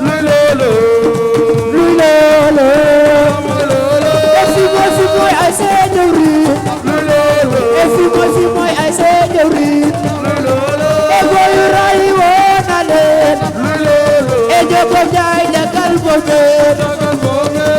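Live assiko band music: dense hand-drum percussion under a gliding melody, played loud and steady.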